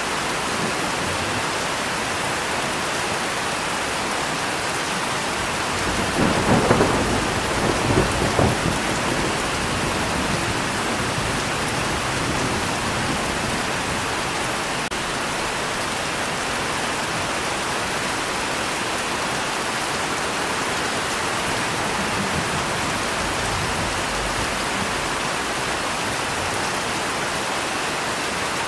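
Steady rain falling, with a thunder clap about six seconds in that rumbles in two surges for roughly three seconds before the rain carries on alone.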